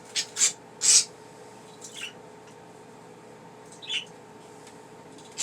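Pet budgies (budgerigars) giving about five short, sharp chirps, spaced unevenly, the loudest about a second in.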